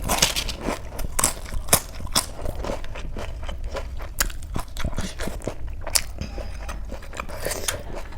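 A person eating: chewing and crunching food, with many small crisp clicks.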